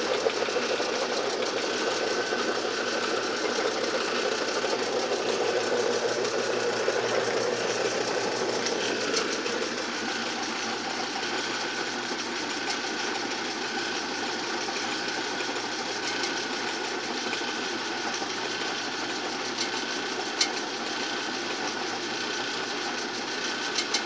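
Pop can crusher machine running steadily, its electric motors driving the crusher wheels through cogged V-belts, with a light clanking and a couple of sharp clicks late on.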